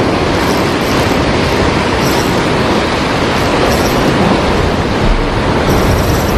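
Heavy surf at high tide, a steady loud roar of waves breaking against the shore.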